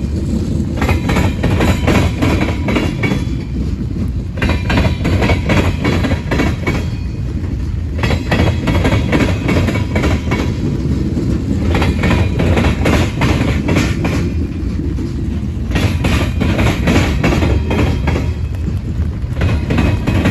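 Freight train cars rolling past with a steady low rumble, the wheels clicking over rail joints in repeating clusters with short gaps in between.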